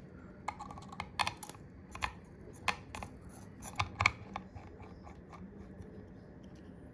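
Irregular sharp clicks and taps of small repair tools and parts against an iPhone's housing while a part is pried off, about a dozen over the first four and a half seconds, then only faint ticks.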